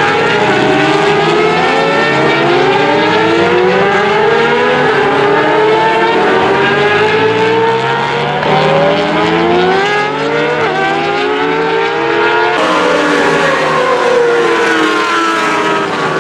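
Several racing engines at full throttle, pitch climbing and falling back as they shift up through the gears, overlapping as the vehicles pass.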